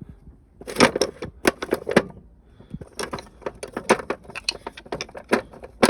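Metal hand tools clattering and clinking against each other, a quick irregular run of sharp clicks and rattles starting about a second in.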